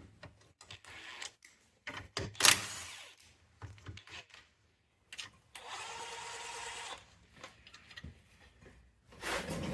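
A power tool runs steadily for about a second and a half, undoing the 13 mm nuts on the anti-roll bar bush caps. Metallic clicks and knocks of the tool and nuts come before and after it, with one loud clatter about two and a half seconds in.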